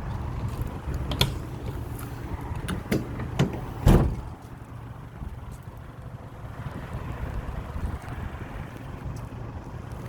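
Truck engine running with a steady low rumble, with a few sharp knocks between about one and four seconds in. The loudest knock comes near four seconds, after which the rumble is quieter.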